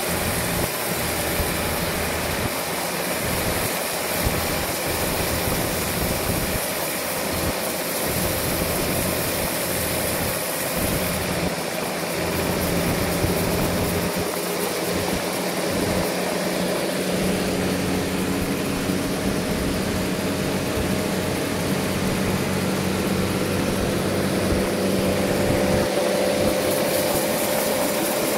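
Sawmill machinery running steadily, a continuous engine-driven mechanical noise with a sustained hum whose pitch shifts slightly about two-thirds of the way through.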